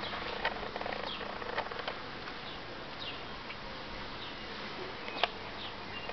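Short high chirps, each falling in pitch, repeating about once a second over steady outdoor background noise, with a few sharp clicks, the loudest about five seconds in.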